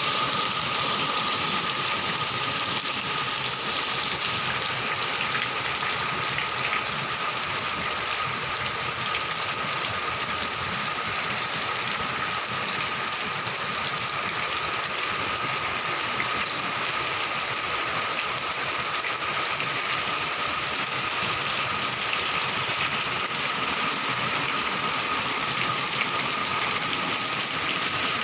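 Heavy rain pouring down steadily, a dense unbroken hiss, with a faint steady whine running through it.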